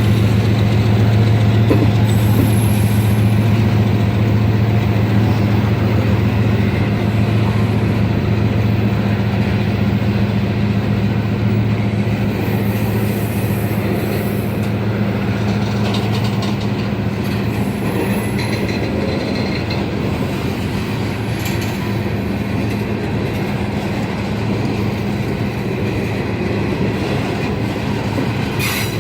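Train rolling past on the rails: a steady low drone with wheel and rail rumble, easing slowly in level over the half-minute.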